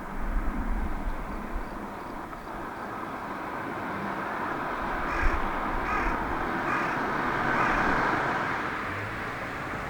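A crow cawing about four times in a row, roughly a second apart, over a steady hum of distant road traffic.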